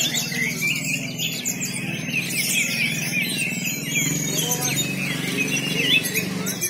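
Many caged songbirds singing over one another in a dense tangle of chirps and trills, over a low, steady background murmur.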